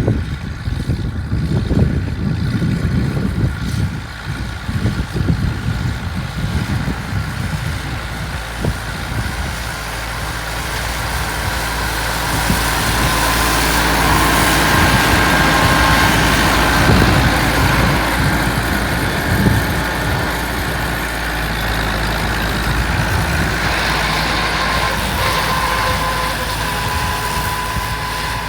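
Massey Ferguson 274S tractor's diesel engine running steadily while it drives a PZ drum mower. A rushing noise and a faint steady whine swell through the middle and ease off near the end.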